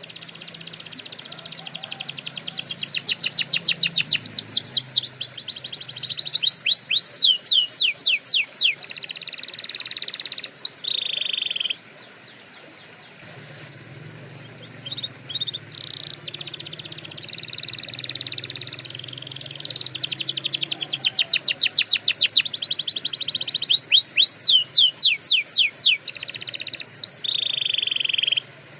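Domestic canary singing two long song phrases, each a run of fast trills and rapid repeated sweeping notes that stops abruptly, with a short pause between them.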